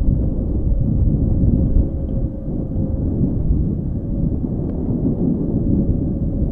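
Wind buffeting the microphone outdoors: a loud, steady low rumble with a faint steady tone underneath.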